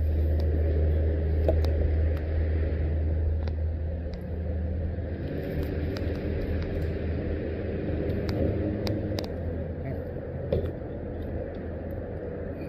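Steady low engine drone, with a second set of steady tones joining about four seconds in, and a few light knocks.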